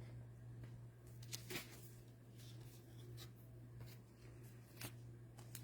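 Faint rustling and a few soft clicks of trading cards and packs being handled, over a steady low hum.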